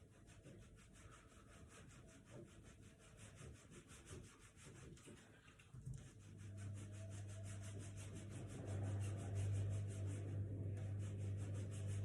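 Small handmade model structures on a shaking earthquake-demonstration base, rubbing and scraping faintly as they sway. About halfway through, a steady low hum sets in and grows louder.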